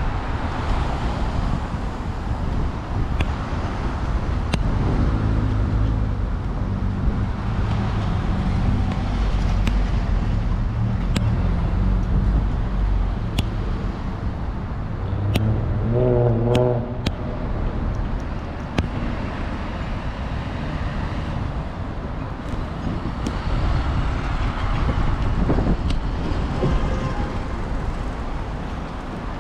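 City street traffic: motor vehicle engines running and passing. A brief horn-like tone sounds about halfway through.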